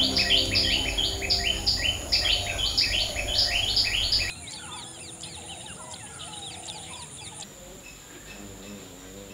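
Rapid, evenly repeated bird chirps, about three a second, over soft held musical notes. The sound cuts off sharply about four seconds in, leaving a much quieter outdoor background of faint scattered bird chirps.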